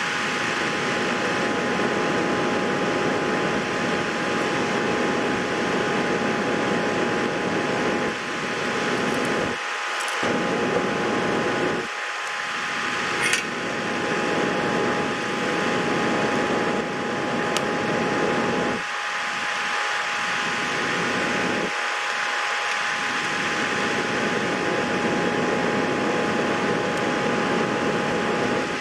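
Steady whir of a running fan, with a constant high whine over it and a few small clicks in the middle.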